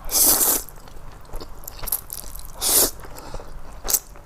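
A person slurping noodles close to the microphone: two long slurps, the first right at the start and the second about two and a half seconds later, with small wet mouth clicks between them.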